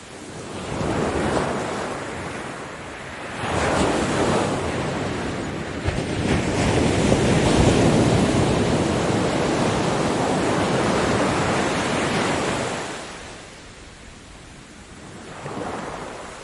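Ocean waves breaking on a beach: surf swelling and washing in a few times, with one long loud surge through the middle before easing to a lull and a smaller wave near the end.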